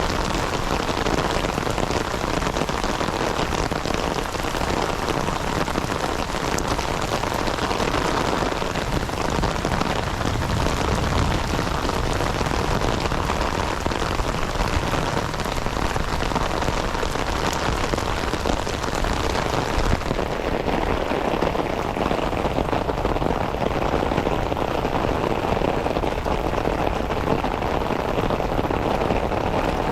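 Heavy rain falling steadily, a dense, even hiss of drops on the ground and foliage. About two-thirds of the way through, the highest part of the hiss thins out.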